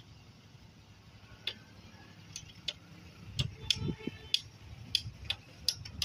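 Sharp clicks from the rails, a few at first and then coming faster and louder, over a low rumble that builds from about halfway: the track ticking as a train approaches the crossing.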